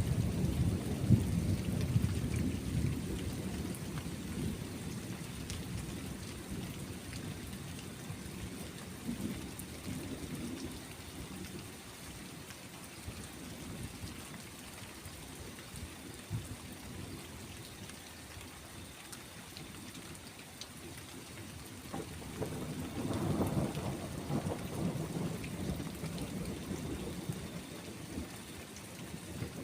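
Steady rain with rolling thunder: a low rumble that is loud at first and fades away over several seconds, then another rumble building up about three quarters of the way through.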